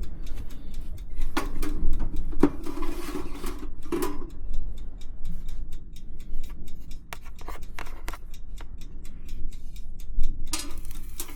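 Rubbing, scraping and clicking of hands handling food and kitchenware, with a string of light irregular ticks over a steady low hum.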